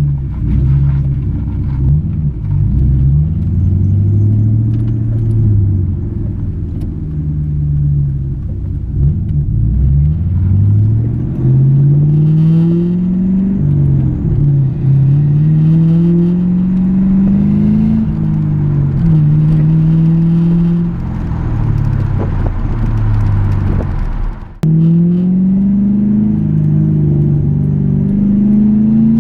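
1996 Ford Mustang GT's 4.6-litre V8 under hard acceleration, the engine note climbing in pitch and dropping back at each gear change, several times over. There is a sudden brief break in the sound about three-quarters of the way through.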